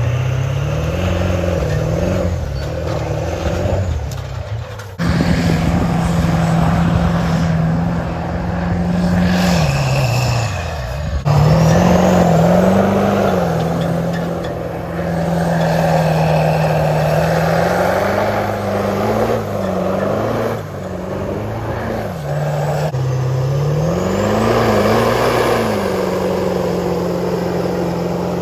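Diesel pickup truck's engine revving up and down as it drives through a field in four-wheel drive. The pitch rises and falls again and again, and the sound jumps abruptly a few times.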